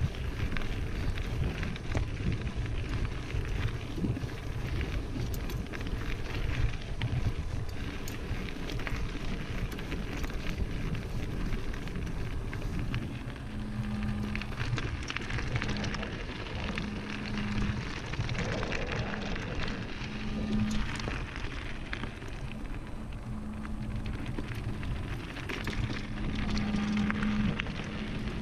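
Mountain bike rolling down a dirt singletrack: steady tyre and trail noise with frequent small rattles and clicks from the bike, and a low buzz that comes and goes in the second half.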